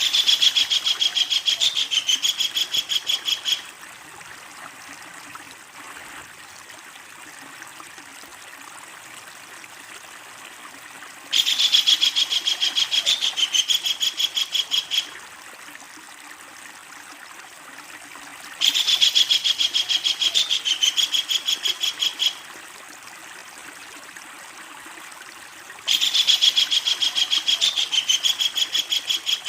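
Kingfisher giving its long, loud rattling call, a fast run of high notes about seven a second, in four bouts of about three and a half seconds each, over the steady rush of a stream.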